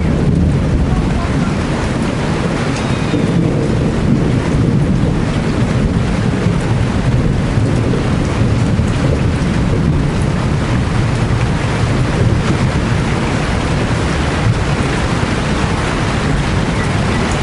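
Heavy rain falling steadily, with a deep continuous rumble underneath.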